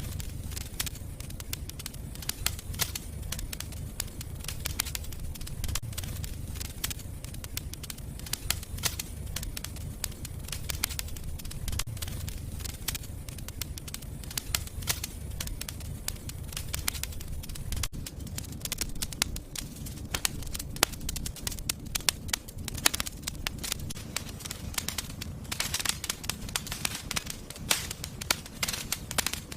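Wood fire burning in a fireplace, crackling with frequent sharp pops over a low rumble of flame; the pops come thicker and louder near the end.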